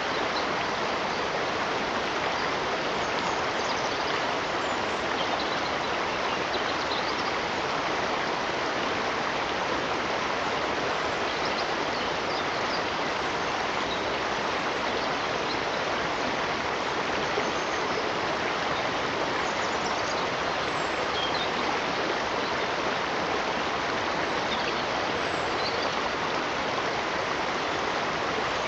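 Stream running steadily: an even, unbroken rush of flowing water.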